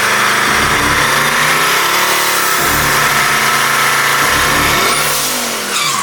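Truck engine revving, its pitch rising and falling.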